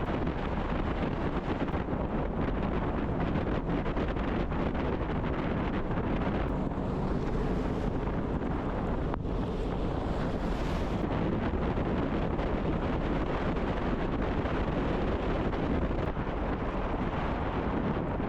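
Steady rushing wind noise on the microphone, with a low rumble underneath.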